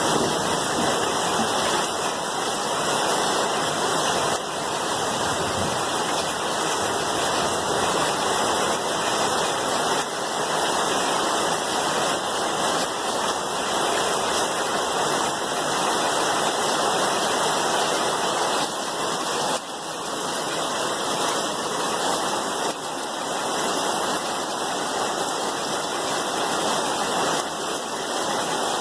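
Steady heavy rain, a dense even hiss of falling water.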